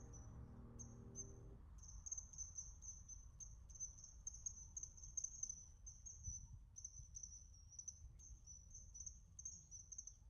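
Insects trilling steadily in a high, pulsing chirr, with faint background music that stops about a second and a half in.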